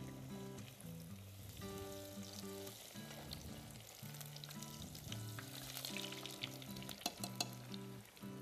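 Aubergine slices frying in a pan of hot oil: a steady sizzle with scattered crackling pops, thickest from about five to seven seconds in. Background music with held notes plays underneath.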